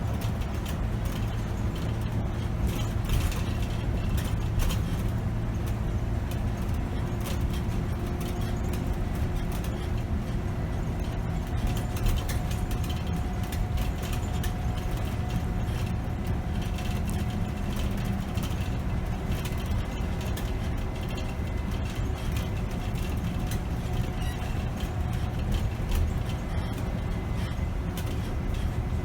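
2008 Scania K270 city bus under way: its diesel engine and road noise make a steady low drone, with frequent small rattles and knocks from the cabin.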